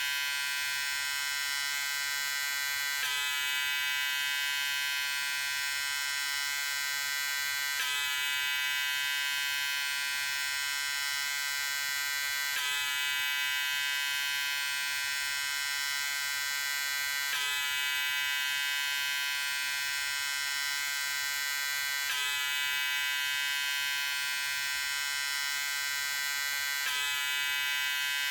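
Electric shaver running with a steady, high-pitched buzz, with a slight hitch about every five seconds.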